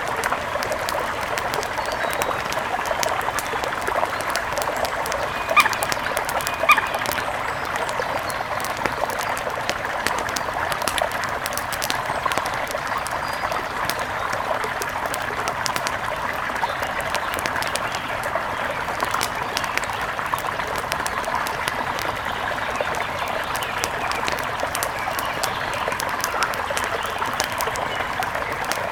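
Steady rush of a mountain river, with a fine, dense crackling of a campfire over it. Two short bird calls come about six and seven seconds in.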